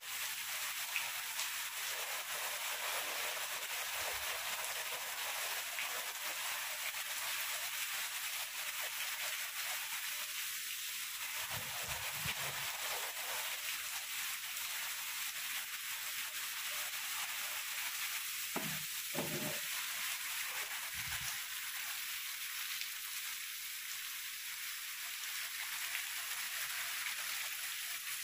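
Heavy tropical downpour: rain falling hard and steady as an even hiss.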